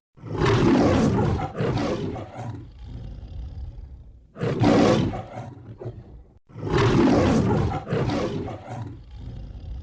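A large animal roaring: a series of loud, rough roars with pauses between them.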